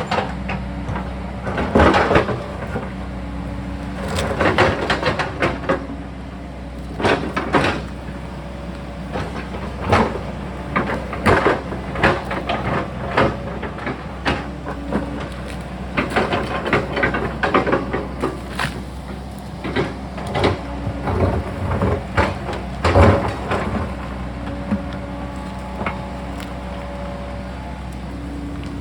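Sany excavator's diesel engine running steadily as it digs, with irregular knocks and scrapes from the bucket working rock and soil, about one every second or two.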